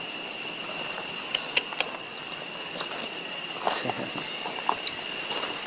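Baby monkeys giving a few short, high-pitched squeaky chirps, over scattered light clicks and taps and a steady thin high-pitched whine.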